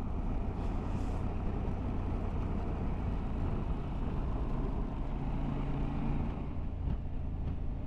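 Motorcycle on the move: steady wind and road noise, with the engine's low, even hum coming through more clearly about halfway through.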